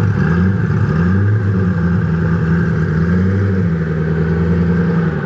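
Koenigsegg CCXR Trevita's twin-supercharged V8 running at low revs, its pitch wavering a little in the first second or so before holding steady.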